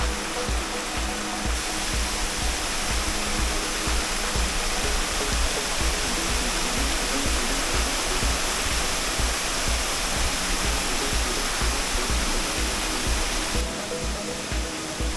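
Waterfall: a steady rush of falling water, its hiss growing brighter about a second and a half in and easing back near the end.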